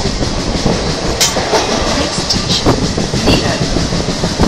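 Electric multiple-unit (EMU) local train accelerating, heard from inside the coach: a repeated thudding from the bogie, much like a steam engine working hard, over the running noise of the wheels on the rails.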